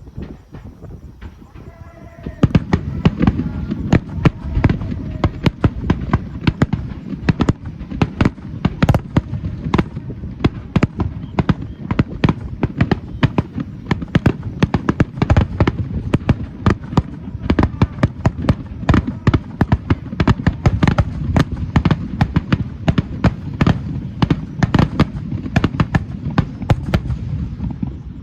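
A fireworks display firing a rapid finale-style barrage: a dense run of bangs and crackles begins about two seconds in and keeps up with many bursts a second until just before the end.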